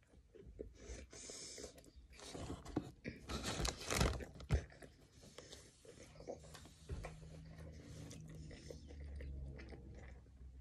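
Close-up chewing of a mouthful of Burger King Whopper with cheese, with soft crunching. A louder spell of paper wrapper rustling and crinkling comes between about two and five seconds in, as the burger is put down on its wrapper.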